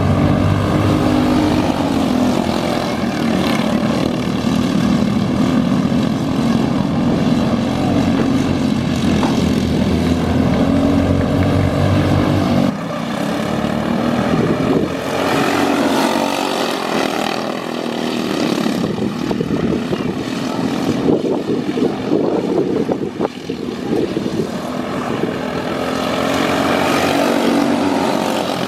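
Outlaw dirt kart engines running at racing speed, their pitch rising and falling as the karts go through the laps. The sound changes suddenly about thirteen seconds in, losing its low rumble.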